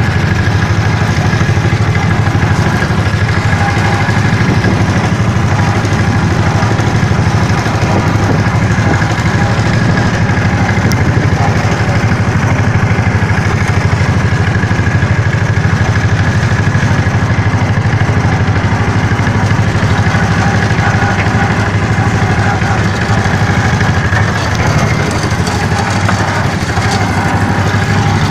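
A vehicle engine running steadily and loudly at an even speed, with no change in pitch.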